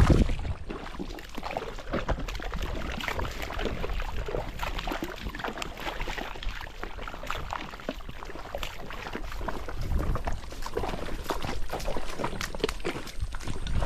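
Irregular sloshing and splashing in shallow muddy water, with many small uneven splashes and knocks.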